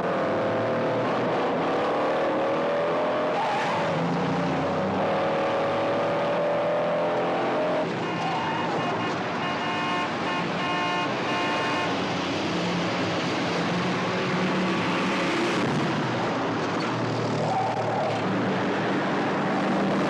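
Cars in a high-speed chase, engines revving hard with the pitch rising and falling, and tires squealing for a few seconds midway.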